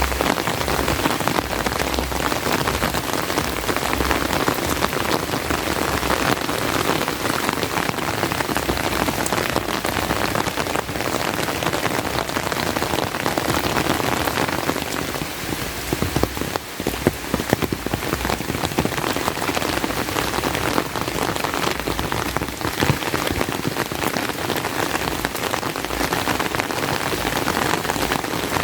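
Steady heavy rain, a dense hiss of countless drops pattering on surfaces. About halfway through it thins briefly, and a few louder single drop hits stand out before the full downpour returns.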